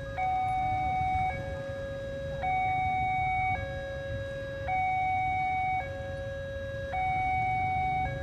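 Railway level-crossing warning alarm sounding: an electronic two-tone signal stepping between a louder higher tone and a softer lower tone, each held about a second, repeating over and over. It signals that a train is approaching and the crossing is closing.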